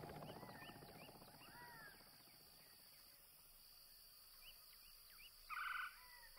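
Quiet outdoor ambience with faint, scattered short bird chirps, then a louder bird call about five and a half seconds in.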